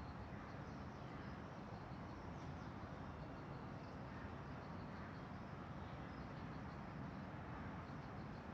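Faint, steady outdoor background noise with scattered faint high chirps of birds.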